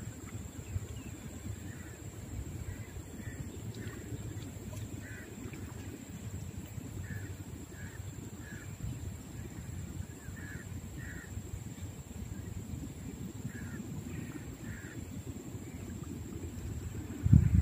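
A bird calling outdoors in short calls, often two at a time, scattered through, over a steady low background rumble.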